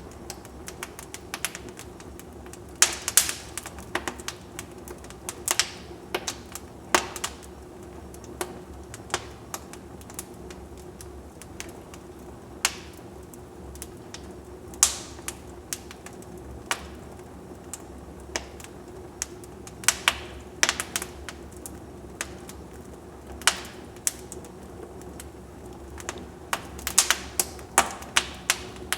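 Wood fire in a fireplace crackling: irregular sharp pops and snaps, some in quick clusters, over a faint steady hum.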